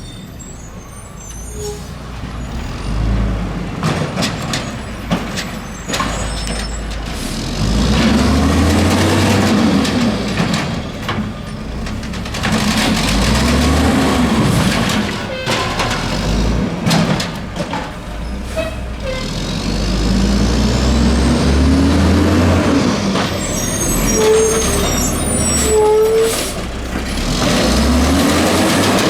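Mack LE garbage truck with an Amrep octagonal automated side-loader body working its collection route: the diesel engine revs up and back down about four times as it powers the hydraulic arm through its cycles, with clanks and knocks between.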